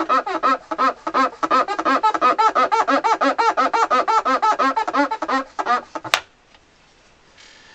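Rapid back-and-forth rubbing squeaks on accordion keys, a cloth worked hard with solvent to scrub off ink markings, about seven squeaks a second. It stops with a sharp click about six seconds in.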